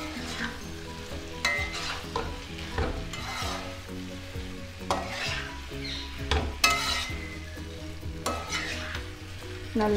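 Prawns in masala sizzling in a non-stick frying pan while a flat spatula stirs and scrapes through them, a scrape about every one and a half seconds.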